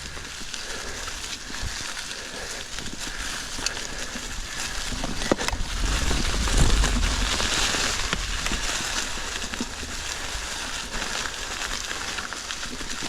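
Mountain bike rolling over a rocky trail covered in leaves: tyres crunching through leaves with scattered clicks and rattles from the bike, and a low rumble of wind on the microphone that swells about five seconds in.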